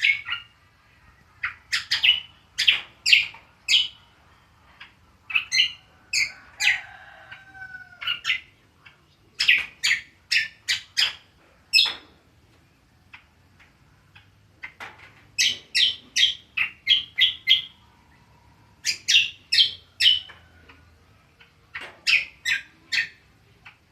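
Cucak kombo songbird giving its rapid 'ngriwik' call: quick, sharp, high chirps in runs of about four to seven, each run lasting a second or two, with short pauses between runs.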